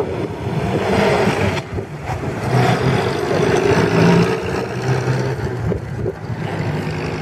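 Small vintage sports car's engine running under throttle as the car drives past close by, loudest about four seconds in as it goes by, then fading as it pulls away.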